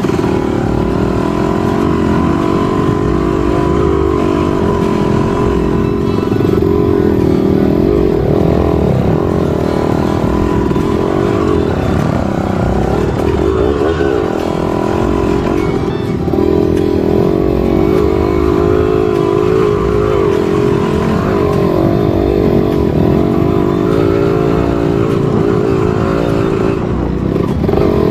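Trail motorcycle engine running under throttle as the bike is ridden off-road, its note wavering up and down without pause.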